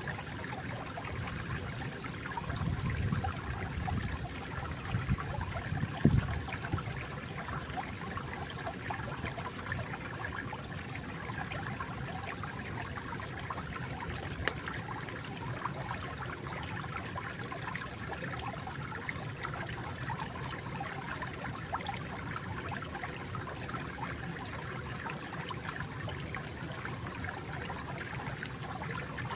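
Stream of water flowing and trickling steadily, with a fuller low gurgle a few seconds in that ends in a sharp splash or pop about six seconds in.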